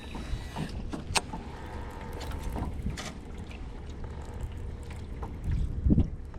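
Steady low rumble and hiss around a small aluminium jon boat on the water, with a few sharp clicks and a heavier knock about six seconds in.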